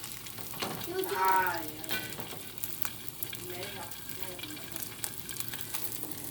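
Slices of bánh tổ (sticky rice cake) sizzling and crackling in hot oil in a frying pan. A voice rises briefly over the sizzle about a second in.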